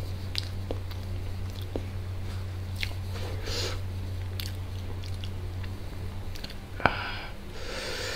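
Close-miked chewing and wet mouth sounds of a man eating biryani with his hand, with scattered small clicks and smacks. A single sharp click about seven seconds in is the loudest sound. A low steady hum underneath fades out about six seconds in.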